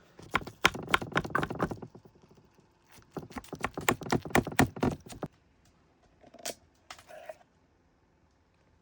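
Cookware and utensils clattering: two runs of quick knocks and scrapes, then a pause and a couple of single knocks with a short ring.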